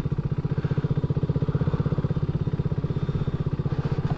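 2023 BSA Gold Star's single-cylinder 652 cc engine running steadily at low speed, an even, rapid beat of firing pulses with no change in revs.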